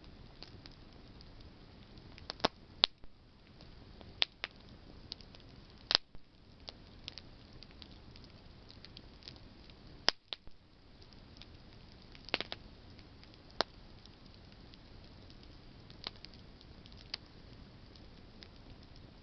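Campfire of burning branches crackling: irregular sharp pops, about ten loud ones and many small ticks, over a faint even hiss.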